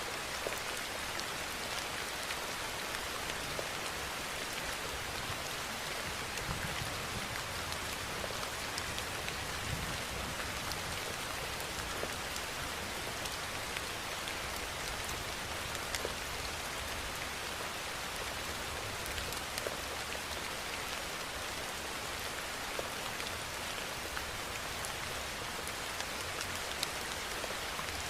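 Steady rain falling: an even hiss with individual drops ticking through it.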